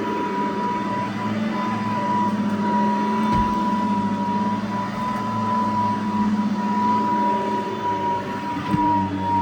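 Cordless Riccar lightweight vacuum running steadily while vacuuming, its motor giving a constant high whine over a lower hum, with a low bump about three seconds in and another near the end.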